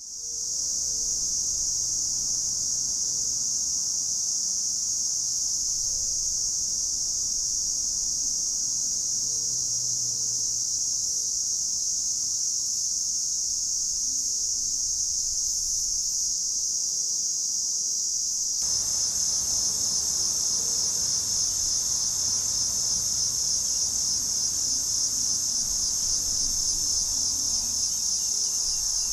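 Platypleura hilpa cicada singing a continuous, steady high-pitched buzz. About two-thirds of the way through, the song turns slightly louder, with a finer pulsing texture.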